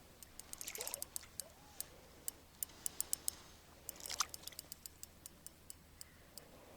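Sparse, irregular clicking from a spinning reel's mechanism while a hooked pike is being played on a jigging rod.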